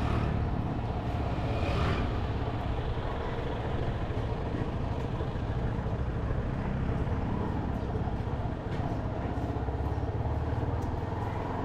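Motorcycle engine running steadily while riding, with road and traffic noise.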